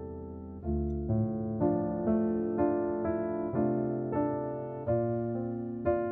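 Soft background piano music, single notes and chords struck about every half second, each fading before the next.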